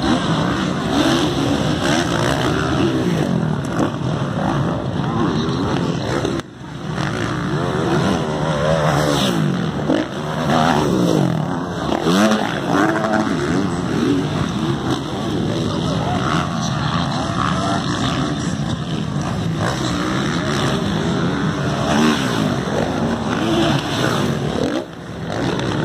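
Several motocross motorcycles racing, their engines revving up and down in overlapping rising and falling pitches.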